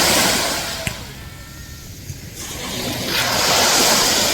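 Ocean waves breaking on the shore: one wave washing out over the first second, a quieter lull, then the next wave building and breaking near the end.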